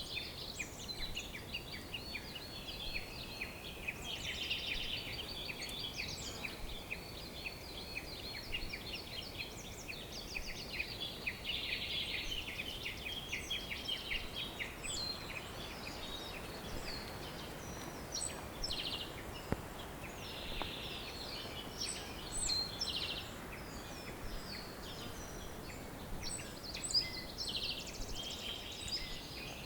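Many songbirds calling at once: a dense chorus of quick chirps and trills, thinning to more scattered sharp chirps in the second half, over a faint steady hiss.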